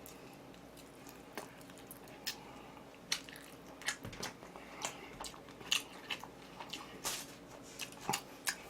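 A person chewing food close to the microphone: irregular soft, wet mouth clicks, about one or two a second, starting about a second in.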